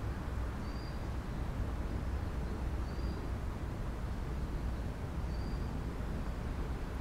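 Steady low outdoor rumble, with a small bird giving a short, high chirp a few times.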